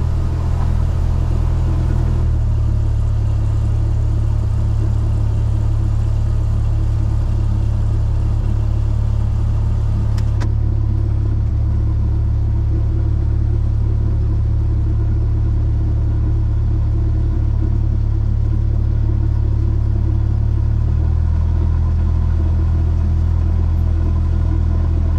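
Cessna 172S's four-cylinder Lycoming piston engine and propeller running steadily at low power, a loud even drone whose pitch shifts slightly twice. A single brief click about ten seconds in.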